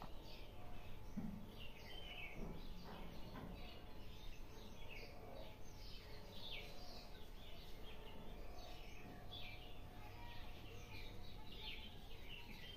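Small birds chirping continuously in the background, many quick high chirps overlapping one another, over a faint low hum.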